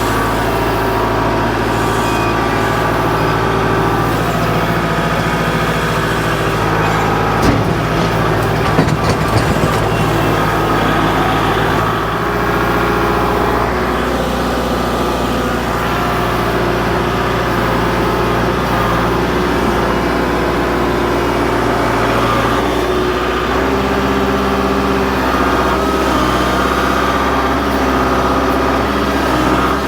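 Kubota L47 backhoe-loader tractor's diesel engine running under work, its speed shifting a couple of times. A short run of knocks about eight seconds in.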